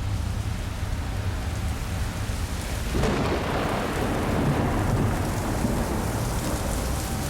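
Thunderstorm: steady rain with thunder rumbling; about three seconds in a louder roll of thunder swells, then slowly fades.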